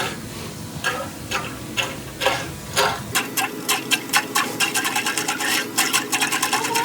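Electric drain-cleaning machine (Flexi Rodder FRE) turning its spinning wire cable through a drain pipe, giving a run of sharp ticking clicks. The clicks come about twice a second at first, then get much faster and denser about three seconds in.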